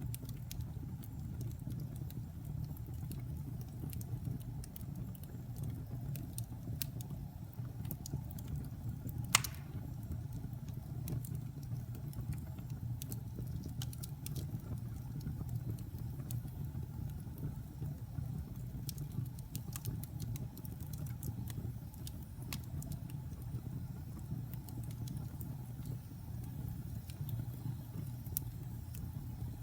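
Wood fire burning in a fireplace: a steady low rumble of flames with scattered crackles of the burning logs, and one sharp pop about nine seconds in.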